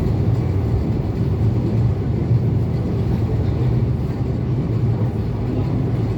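ET2 electric multiple unit running at speed, heard inside the passenger car: a steady, deep rumble of wheels and motors on the track.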